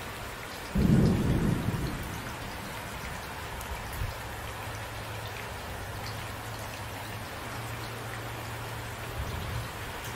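Steady rain falling, with a sudden clap of thunder about a second in that rumbles low and fades over a second or two.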